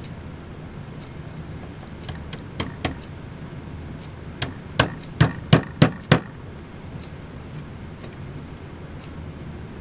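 A small hammer tapping nails into a wicker picnic basket: four light taps about two seconds in, then six harder blows in quick succession around the five-second mark.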